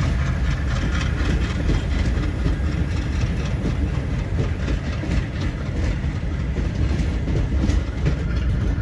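Indian Railways passenger coaches rolling past at close range as the train departs, with a steady low rumble and the wheels clicking over rail joints in quick succession.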